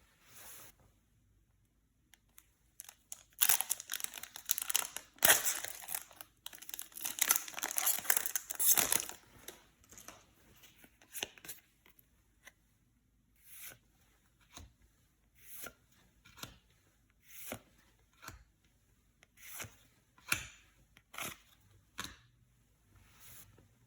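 Foil Yu-Gi-Oh booster pack torn open with a crinkly rip lasting about six seconds, starting a few seconds in. Then cards are slid through one by one, a short soft swish about once a second.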